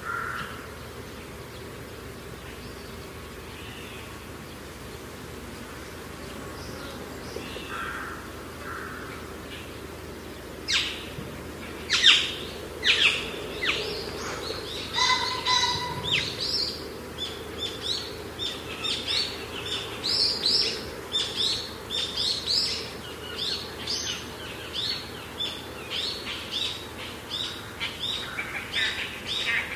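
Birds calling outdoors: after a stretch of faint steady background noise, short sharp chirps start about a third of the way in and keep coming, roughly two a second.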